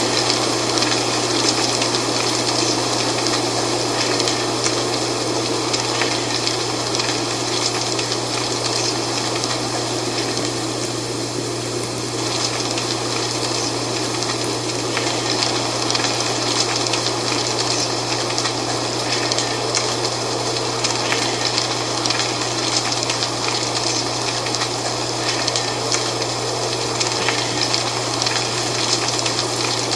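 Wind blowing through dry fall leaves, a steady rustling hiss with fine crackles, easing slightly for a moment about a third of the way in. A steady low hum runs underneath.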